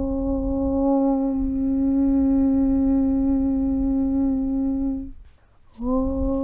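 A long 'Aum' (Om) chant hummed on one steady low pitch over a low rumble. It breaks off a little after five seconds, and after a short pause a new 'Aum' starts, sliding up into the same pitch near the end.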